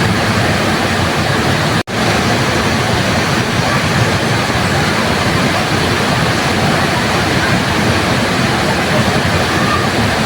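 Waterfall, falling water making a steady, even rushing noise. The sound cuts out for an instant just under two seconds in, then carries on as before.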